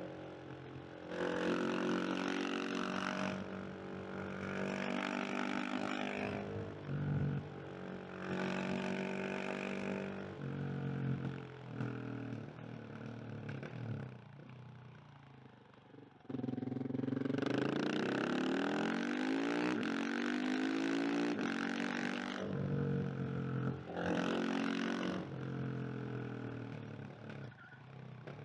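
KTM 690 SMC R supermoto's single-cylinder engine pulling in repeated bursts of acceleration, its pitch climbing through the gears, with quieter off-throttle spells between; the longest pull comes a little past halfway.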